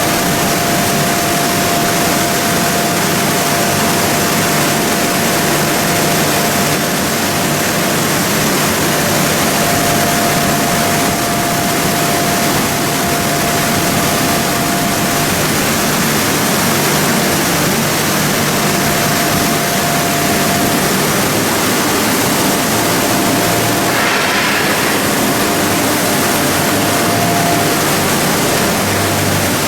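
Plastic pelletizing line machinery running steadily: a loud, even mechanical rush with a steady high whine, and a brief hiss about twenty-four seconds in.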